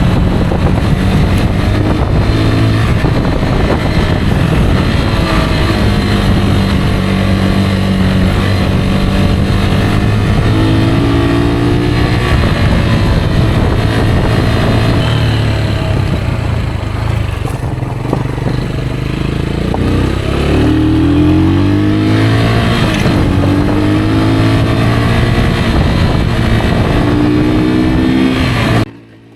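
Rieju Aventura 125 motorcycle engine running under way, its pitch rising and falling again and again as the rider opens and closes the throttle, over a steady rushing noise. The sound cuts off abruptly near the end.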